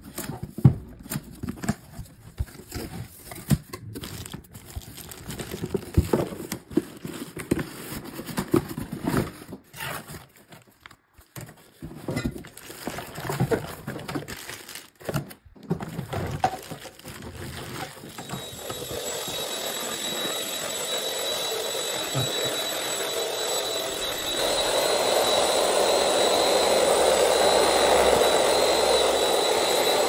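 Plastic packaging crinkling and cardboard rustling as a SilverCrest SMS 300 anti-dust-mite handheld vacuum is unpacked, in irregular rustles and knocks. About two-thirds of the way in, the vacuum's motor starts running with a steady high whine, stepping up louder a few seconds later.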